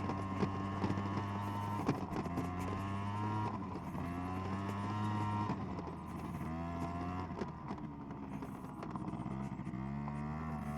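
SYM Jet2 50 scooter's 50cc two-stroke engine running under way, its pitch dipping and rising a few times from about halfway through as the revs change.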